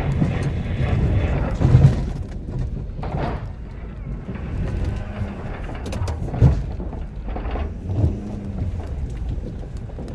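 Ford F-250 6.7L Powerstroke V8 turbo-diesel pickup running steadily under load while plowing a rough road, with three thumps, about two, six and a half and eight seconds in, as the truck and plow jolt over the uneven ground.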